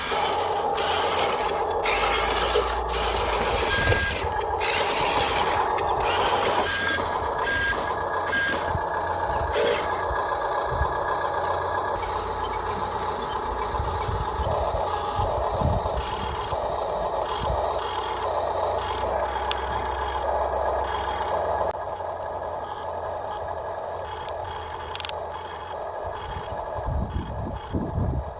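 Radio-controlled model Huina dump truck working: small electric motors whining steadily, with scraping and rattling of loose gravel in the first half and a repeating on-off beep like a reversing alarm in the second half.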